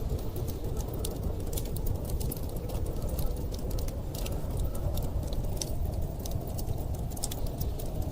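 Wood fire crackling with frequent small, irregular pops over a steady low rumble of storm wind.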